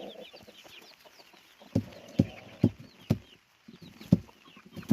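Young chicks peeping in short, high, falling chirps, with an adult hen giving several short low clucks in between.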